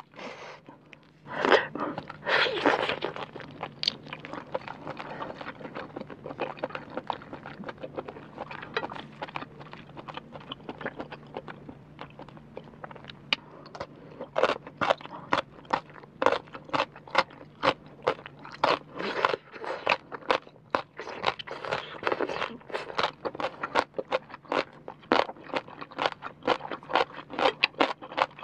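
Close-miked chewing and crunching of crisp rau tiến vua (celtuce stem) salad. The crunches are sharp and loud, softer for the first half, then coming thick and fast from about halfway in. A faint steady low hum runs underneath.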